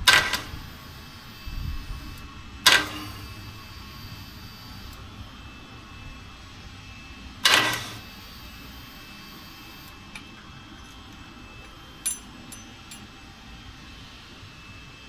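Harley-Davidson Sportster 883's electric starter bumped three times, each a brief crank of under half a second that turns the engine over without letting it fire. This pushes the oil left in the engine out to drain when the oil is empty. A fainter click comes about twelve seconds in.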